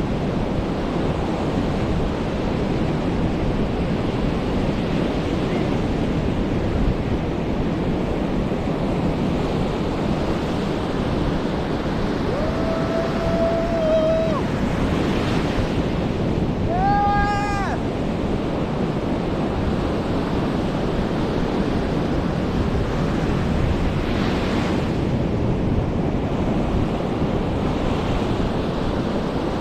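Sea surf breaking and washing up on a black-sand beach, a steady rushing. Around the middle, two brief pitched calls from an unseen source stand out: a held tone lasting about a second and a half, then a shorter one a few seconds later.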